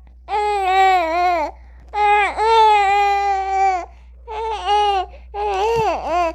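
A newborn baby crying in four long wails, each a second or two long, with short breaths between them.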